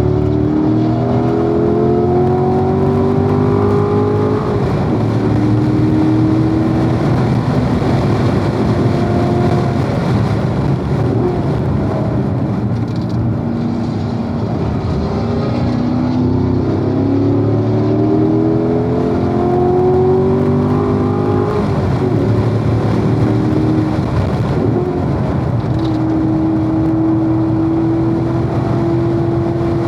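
Corvette V8 engine under hard acceleration on a racetrack, its pitch climbing through the gears twice, easing off in between, and holding a steady note near the end.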